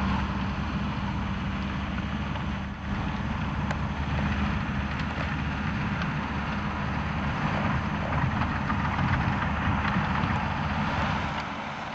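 Lamborghini R7 200 tractor's engine running steadily under load while pulling a plough, dipping briefly just under three seconds in.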